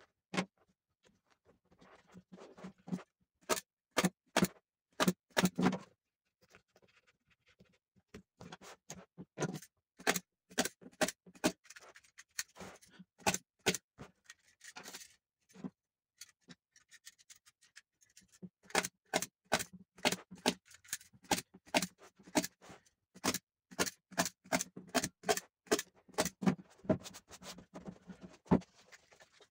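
Irregular series of sharp light taps and knocks, several a second, coming in bursts with short pauses between.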